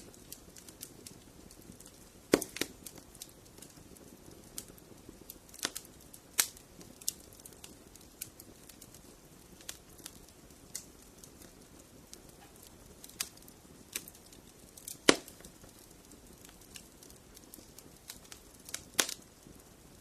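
Wood fire in a fireplace crackling: scattered sharp pops and snaps over a soft steady hiss, with the loudest pops about two seconds in and about fifteen seconds in.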